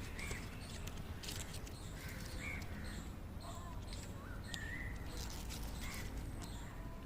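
Birds chirping outdoors: a handful of short, separate chirps and little rising and falling calls, over a steady low rumble, with a faint high pulse repeating about two to three times a second behind them.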